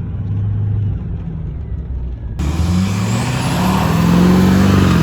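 Truck engine running low and steady, then from about two and a half seconds in a truck engine revving up, its pitch rising, with a loud rushing hiss, stopping abruptly at the end.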